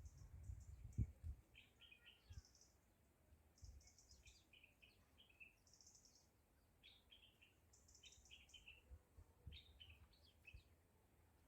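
Faint chirping of small birds in short repeated phrases, with a few low thumps in the first second or so.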